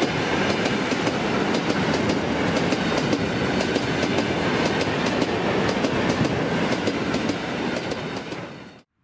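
Freight train of dump cars rolling past, its wheels clacking rhythmically over the rail joints with a steady rumble of the wagons. The sound fades and then cuts off abruptly near the end.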